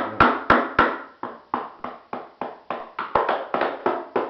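Rapid hammer blows on a wing mold, about three to four sharp knocks a second, each ringing briefly, as the mold is knocked loose from its plug.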